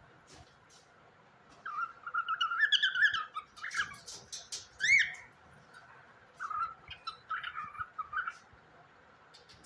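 Pet cockatiel chirping and whistling: a warbling run of chirps about two seconds in, a single rising whistle near five seconds, and more chattering chirps a little later.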